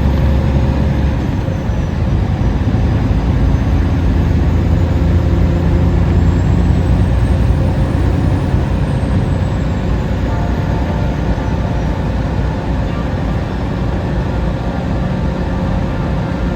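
A truck driving at steady speed: constant engine drone and road noise, with no change through the stretch.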